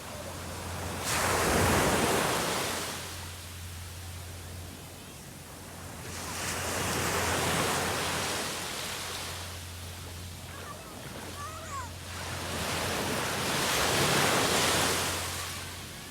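Sea waves breaking on the shore: three swells of surf about six seconds apart, each rising and then washing away. A steady low hum runs underneath.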